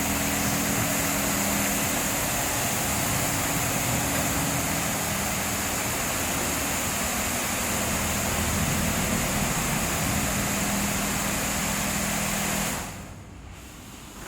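Leisuwash 360 touchless car wash machine running: a steady hiss over a motor hum, which cuts off sharply near the end.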